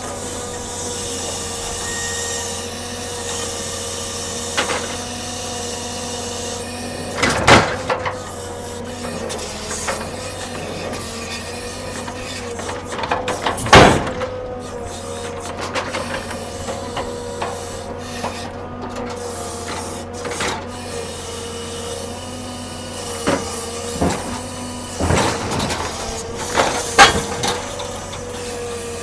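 Log truck unloading: a steady engine-driven mechanical hum holds one pitch, broken by several loud clunks of heavy metal and logs striking. The loudest clunks come a few seconds in, about halfway, and in a quick cluster near the end.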